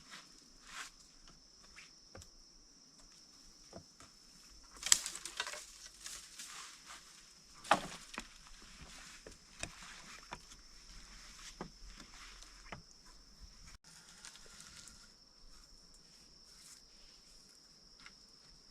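Steady high-pitched drone of jungle insects, with scattered knocks and rustles over it, the two loudest about five and eight seconds in.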